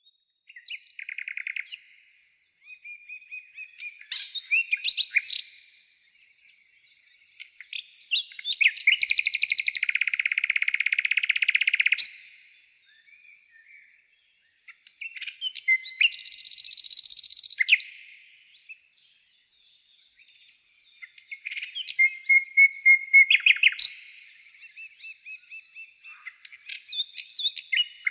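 A songbird singing close by in varied phrases of a few seconds each, separated by short pauses. Several phrases end in fast rapid-note trills, the longest running about four seconds.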